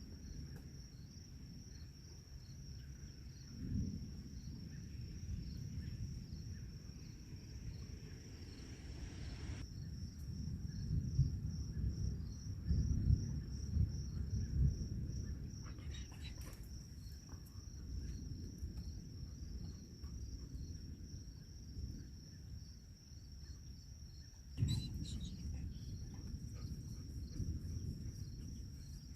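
Crickets chirping in a steady, evenly pulsing high-pitched chorus, over a low, uneven rumbling noise that swells about halfway through.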